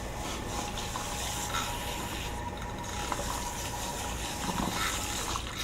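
Tap water running steadily into a sink while a bundle of hair is rinsed under it, with a few light knocks and clicks.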